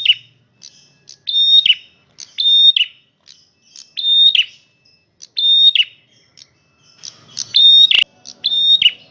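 A male prenjak merah calls loudly and repeatedly, about six calls. Each is a short, high note held at one pitch that ends in a quick downward slide. A sharp click comes near the end.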